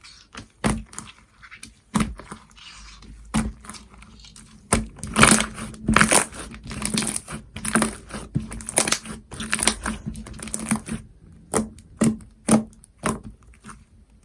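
Hands squishing and pressing a clear, water-jelly slime, making sharp popping clicks. About five seconds in the clicks run together into dense crackling for several seconds, then thin out to single pops again.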